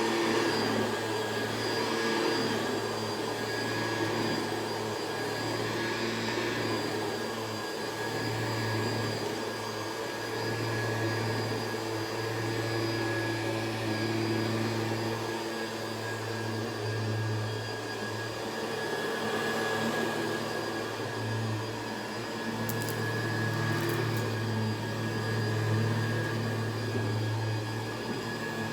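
Hoover Convertible upright vacuum cleaner running on carpet with its brush roll spinning, a steady motor whine over a low hum that swells and eases every couple of seconds as it works the carpet.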